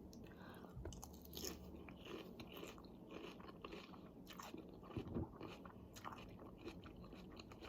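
Faint close-up chewing with a scatter of small, irregular crunches as a person eats.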